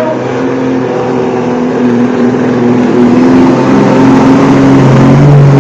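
Pulling truck's engine running with a steady, loud note, growing louder about three seconds in and rising slightly in pitch near the end.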